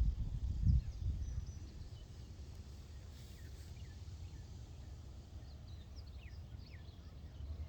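Outdoor ambience: a steady low wind rumble on the microphone, with faint, short bird chirps scattered through, more of them in the second half. A few heavier low thumps in the first second.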